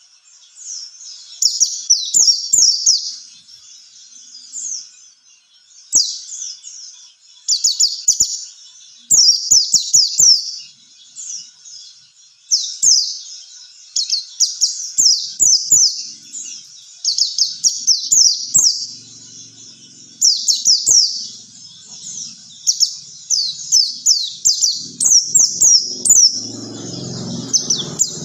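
White-eye (pleci) singing a fast, high-pitched chattering song of rapid down-slurred chirps in repeated bursts with short pauses.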